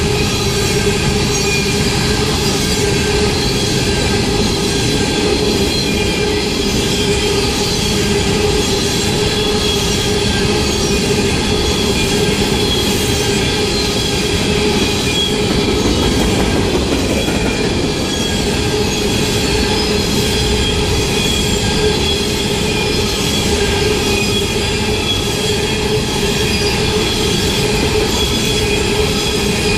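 Empty coal hopper cars of a freight train rolling past close by: a steady rumble of steel wheels on rail, with several high tones held over it and no break.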